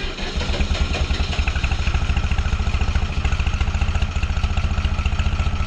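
Farm tractor's diesel engine running steadily, with a fast, even firing pulse.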